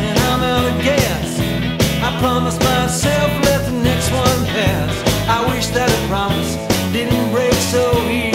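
Rock and roll music playing loud: an instrumental passage, a lead line of bending notes over a steady bass and drum beat.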